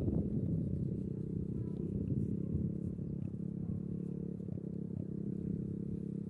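Motorcycle engines running at a steady pitch.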